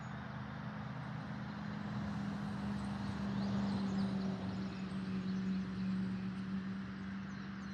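A steady engine hum that grows louder a few seconds in and eases off near the end, with birds chirping faintly.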